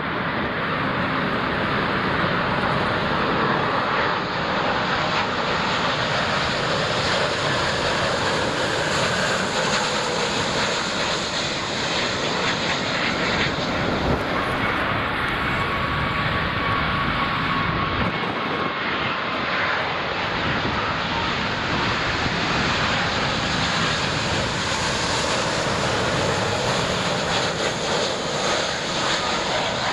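Jet airliner engines running loud and steady, a continuous rush of noise with a faint whine that shifts in pitch around the middle.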